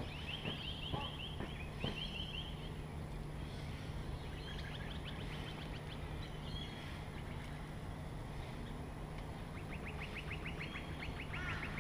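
Outdoor birds calling in short runs of rapid, repeated high chattering notes, several times over, above a steady low hum, with no talking.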